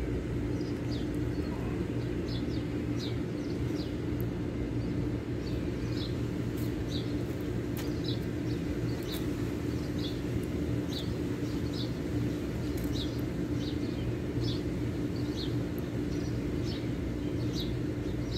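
Small birds chirping over and over in short high notes, over a steady low hum.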